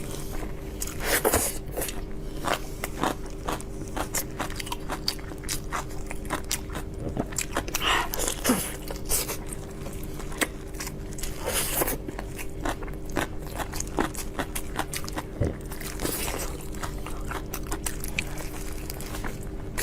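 A person biting and chewing food, with many short crunches and clicks throughout, over a faint steady hum.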